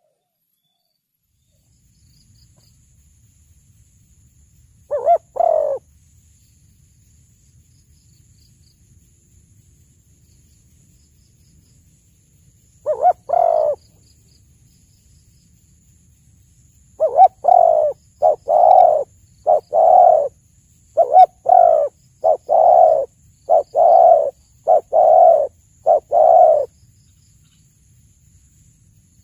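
Spotted dove (tekukur) cooing: a short coo phrase about 5 s in, another about 13 s in, then a run of about ten coos in quick succession from about 17 s on.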